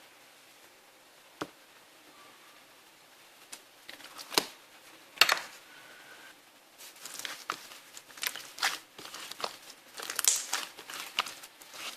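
Crinkling and crackling of something being handled, close up. A few separate sharp crackles come in the first half, then a dense run of crinkling from about seven seconds in.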